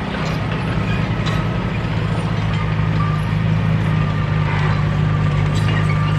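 Bulldozer diesel engine running steadily, with a few short metallic clicks.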